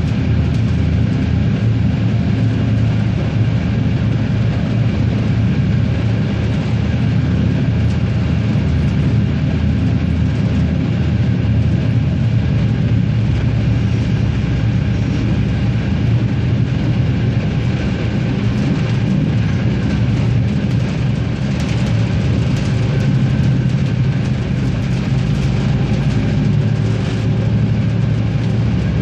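A RegioSprinter diesel railcar under way: its diesel engine runs at a steady pitch over a continuous rumble of wheels on rail.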